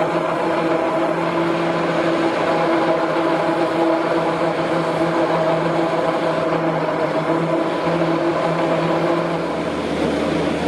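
Steady machine hum: several constant tones over an even rushing noise, with a deeper low hum joining near the end.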